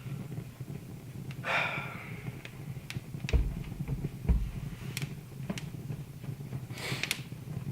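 Wood fire crackling in a fireplace, with scattered sharp pops over a steady low hum. Two short breathy rushes come about a second and a half in and near the end, and two dull low thumps fall midway.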